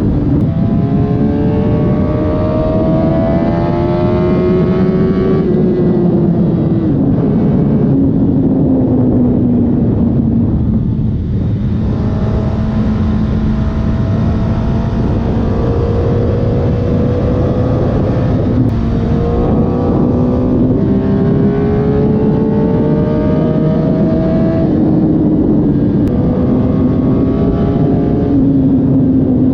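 2007 Suzuki GSX-R1000 K7 inline-four on its stock exhaust, on the move and pulling through the gears. The engine note rises in pitch and drops sharply at each upshift, several times, over steady wind and road rush.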